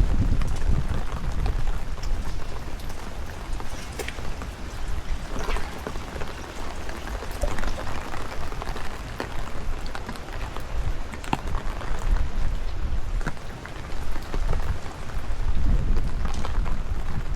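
Steady rain with many sharp drop ticks, and a choppy low rumble of wind buffeting the microphone that is strongest at the start and again near the end.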